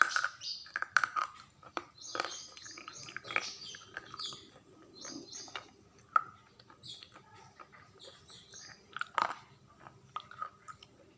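Close-up biting and chewing of crunchy food, with sharp crackly crunches coming irregularly throughout, loudest about nine seconds in. Small birds chirp repeatedly in the background.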